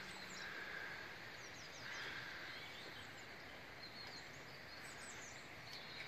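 Quiet countryside background with small birds chirping faintly now and then, short high calls scattered throughout.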